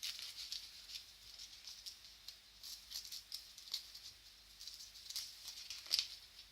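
Newspaper rustling and crackling in quick irregular bursts as an Indian ringneck parrot plays with and shreds it, with a sharper crackle about six seconds in.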